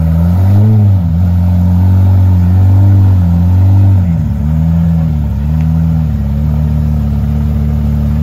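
Car engine revving, its pitch rising and falling in a series of blips, then settling to a steady pitch for the last couple of seconds.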